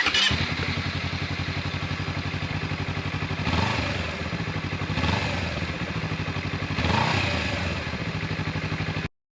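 Honda CBR250RR motorcycle engine running through an aftermarket exhaust, idling with an even pulsing beat and briefly revved three times. The sound stops abruptly near the end.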